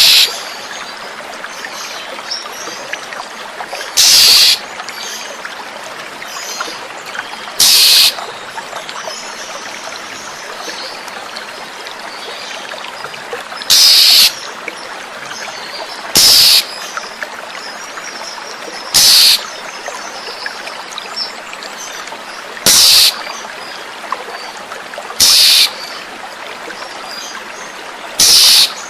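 Oriental magpie-robin (kacer) giving short, harsh, loud calls, about eight of them a few seconds apart, over the steady trickle of flowing water.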